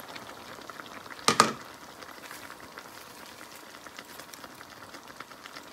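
Bottle gourd, shrimp and chorizo cooking in a wok, a steady crackling sizzle and simmer. About a second and a half in there is a sharp double knock, the loudest sound.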